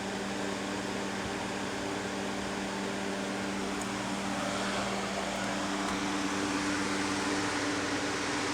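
Laskowood P200I box fan running steadily on high speed: a rush of air over a steady motor hum.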